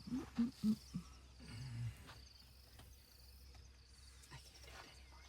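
Faint insects chirping over a low steady hum, with a few short low pitched sounds in the first couple of seconds.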